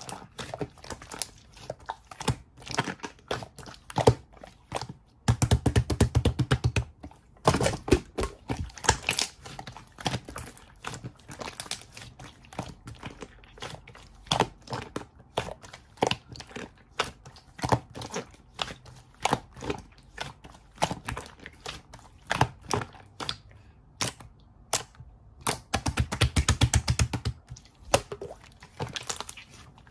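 Small objects being handled close up: a steady string of clicks, taps and crinkling, with two runs of very rapid clicking, about five seconds in and again near the end.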